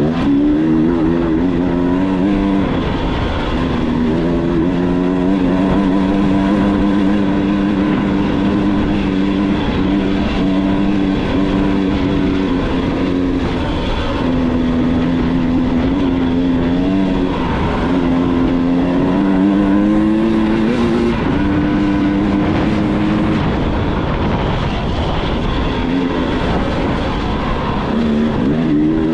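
Dirt bike engine running under load, its pitch rising and falling again and again as the revs change, over a steady rushing noise.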